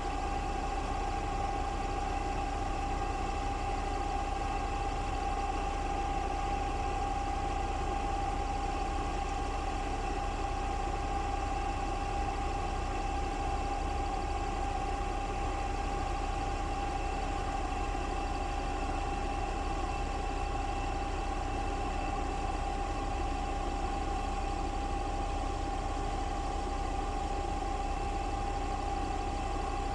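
Putzmeister 36-4 concrete pump truck running steadily, an even engine drone with a constant whine over it.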